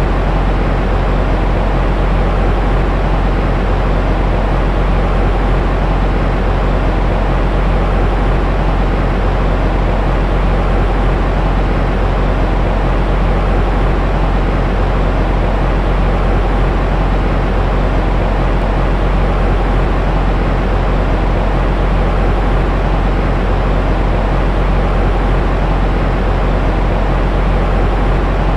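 Continuous white noise for soothing a baby to sleep, weighted toward the low end: a steady, deep rumbling hiss with little treble that never changes.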